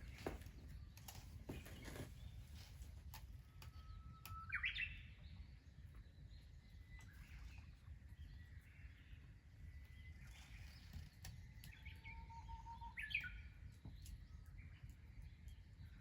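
A bird singing twice: a held whistle that breaks into a quick rising flourish, about four seconds in and again near the end, faint over a low steady rumble of background noise.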